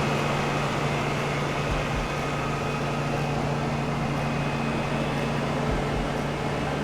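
Steady low mechanical hum at one constant pitch, holding unchanged throughout.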